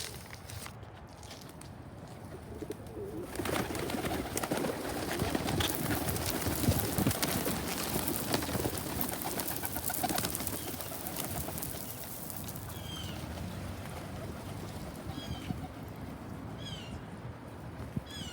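A flock of pigeons cooing and moving about close by, loudest in the middle. From about two-thirds of the way through, a blue jay gives short calls about every second or two.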